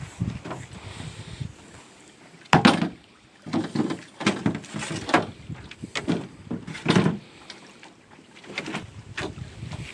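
Oars working a small rowboat loaded with bamboo: a string of irregular strokes, about one a second, splashing and knocking against the boat. The loudest comes about two and a half seconds in.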